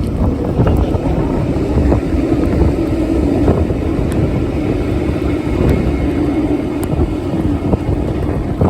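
Wind buffeting the microphone with a low rumble, and a steady hum from a motor vehicle passing along the street for most of the stretch.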